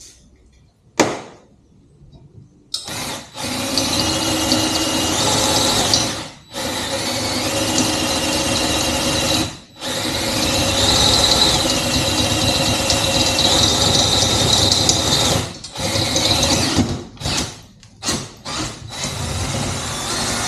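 Hand-held power drill boring a 3/8-inch hole through a metal swing arm tube, with a steady high whine as the bit cuts. It runs in long stretches with two brief pauses, then in short on-off bursts near the end.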